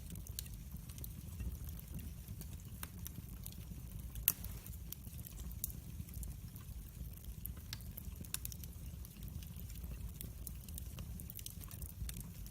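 Wood fire crackling in a fireplace: scattered sharp pops and snaps over a low steady rumble, with one louder pop about four seconds in.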